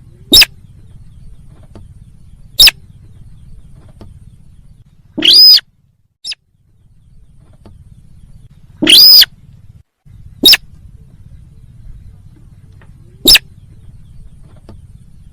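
Sintar bird calls played as a hunting lure: short sharp notes alternating with longer calls that rise and fall in pitch, a few seconds apart, over a faint low hum.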